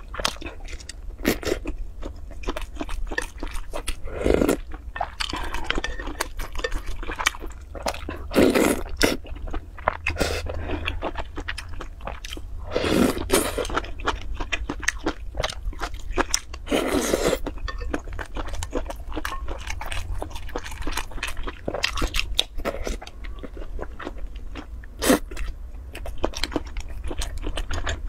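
Close-miked eating sounds: biting and chewing on soft sausage and noodles, with many small wet clicks and a few longer, louder bursts. A steady low hum runs underneath.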